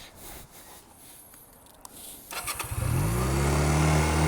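A vehicle engine is cranked by its electric starter a little over two seconds in. It catches after under a second of cranking, revs briefly and settles into a steady idle.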